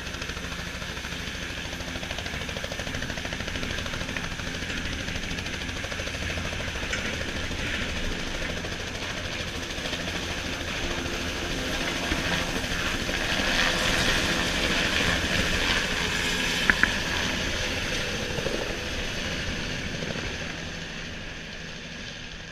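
Helicopter rotor chop and engine running steadily with a fast beating rhythm, growing louder past the middle and easing off near the end. Two sharp clicks come about three-quarters of the way through.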